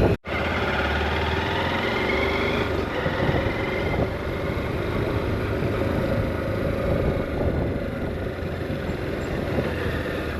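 Motorcycle engine running while riding, with steady wind and road noise and a slightly wavering engine pitch. The sound drops out briefly just after the start.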